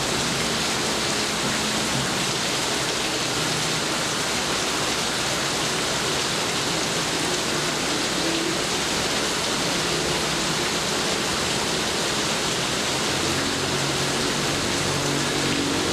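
Steady rain falling as an even hiss. A low rumble of distant thunder builds near the end.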